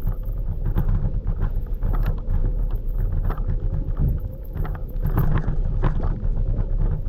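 Ride noise from a scooter-mounted camera: wind buffeting the microphone as a heavy low rumble, with a faint steady whine and frequent small knocks and rattles from travelling over the pavement.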